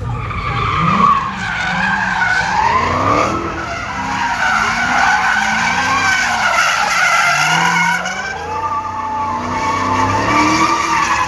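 Tyres squealing in a long, wavering screech that rises and falls in pitch, over the Dodge Hellcat's supercharged V8 revving up and down.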